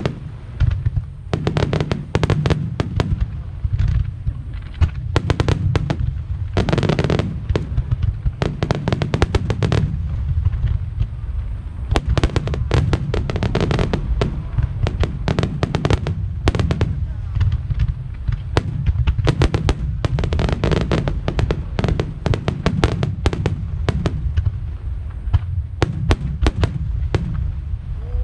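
Aerial fireworks shells bursting in quick succession: dozens of sharp bangs, often several a second, over a continuous low rumble.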